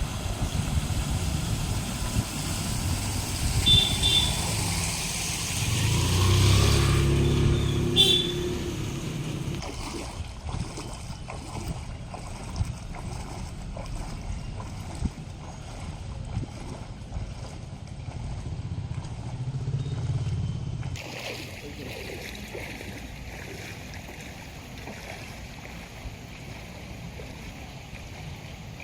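An engine running with a steady low rumble; its pitched hum swells and fades around six to eight seconds in. The background changes abruptly twice, like cuts between outdoor recordings.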